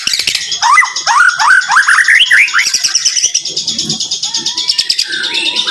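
White-rumped shama (murai batu) singing a rapid-fire 'tembakan rapat' song: a run of quick rising whistled notes in the first half, over dense, fast, high chattering trills.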